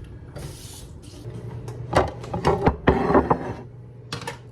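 Kitchen handling sounds: a brief hiss near the start, then a run of knocks and clinks about two seconds in, over a steady low hum.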